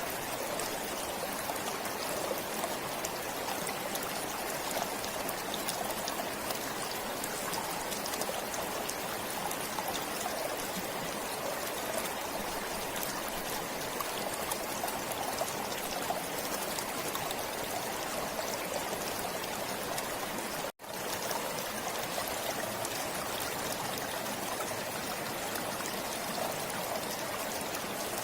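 Forest stream flowing steadily, a continuous rush and trickle of water. The sound cuts out for an instant about two-thirds of the way through, then carries on unchanged.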